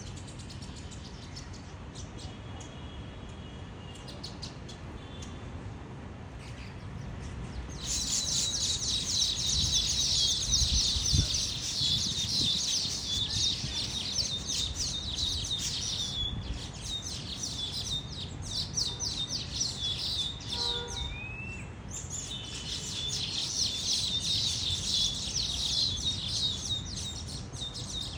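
A flock of small birds chattering in rapid, high-pitched chirps, setting in about a quarter of the way through and carrying on with a brief lull near the middle. A single short rising whistle is heard during the lull.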